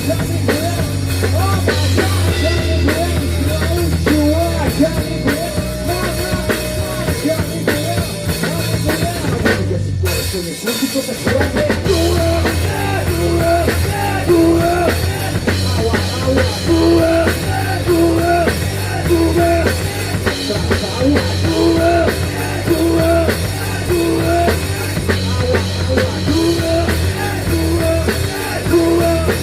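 Rock music played by a band, with drum kit and bass and a repeating melodic line. There is a brief break about ten seconds in.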